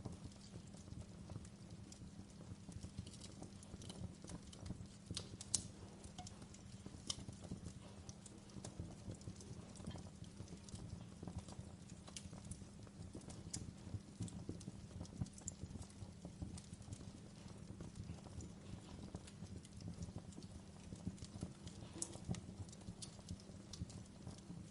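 Logs burning in a fireplace, crackling: a dense stream of small pops and ticks over a steady low rumble, with a few sharper snaps, the loudest about five and a half seconds in.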